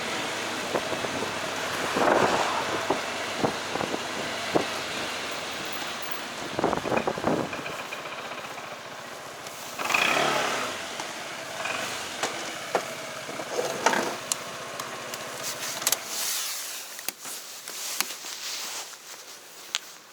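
Motorcycle ridden through city traffic, with road and wind noise and passing vehicles swelling and fading. The low rumble drops away near the end, leaving a few sharp clicks and knocks.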